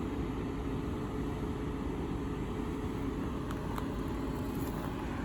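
Steady low hum of an idling vehicle, with a faint hiss.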